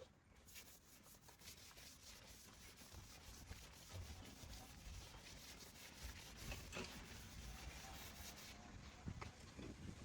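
Faint rubbing and scraping with scattered small clicks, slowly growing louder.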